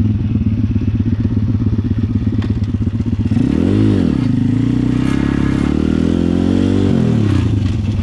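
Pit bike's small single-cylinder engine idling, then blipped once about three seconds in. It is revved up again more slowly around five seconds in and falls back to idle near the end.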